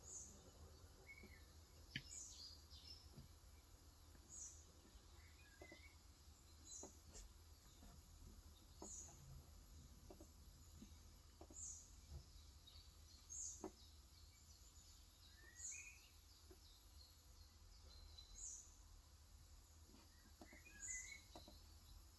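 Faint bird chirps repeating about every two seconds, with scattered soft keystrokes on a Cox Endeavor 35 g electro-capacitive keyboard.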